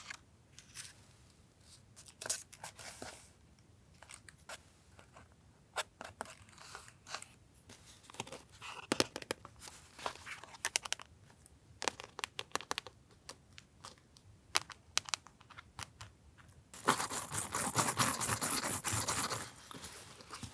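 Paper collage materials being handled at a desk: small taps, scrapes and rustles of paper, then a louder crinkling, tearing stretch of paper lasting about three seconds near the end.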